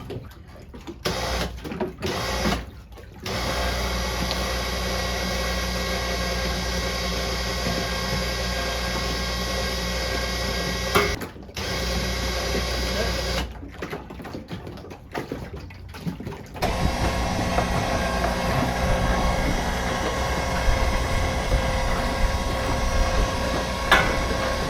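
Electric winch running under load as it hoists an outboard motor on a line, started and stopped in short runs. It stops briefly about eleven seconds in, runs unevenly for a few seconds after that, then runs steadily and a little louder.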